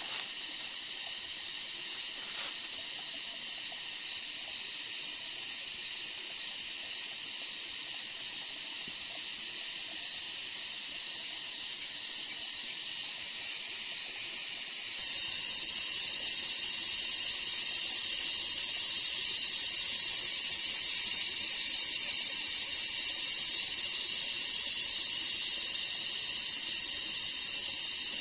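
Steady high-pitched chorus of rainforest insects, a continuous hiss with no low sound beneath it. About halfway through it changes abruptly to a slightly different pattern.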